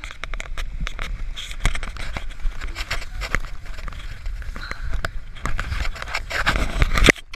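Towed tractor inner tube sliding and bouncing over crusted snow: dense crackling and scraping over a low rumble, cutting off suddenly near the end.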